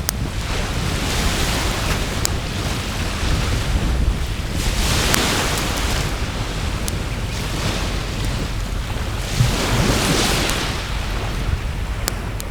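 Sea waves washing ashore, swelling every few seconds, with a few sharp crackling pops from a wood fire and a low rumble of wind on the microphone.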